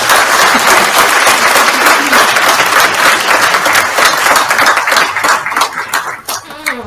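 A large crowd applauding steadily, thinning to scattered claps near the end.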